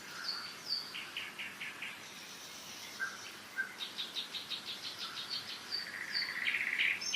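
Several songbirds singing: short whistled phrases, then a fast run of repeated notes, and a buzzy rising trill near the end. Under them is a faint steady hiss of a mountain river.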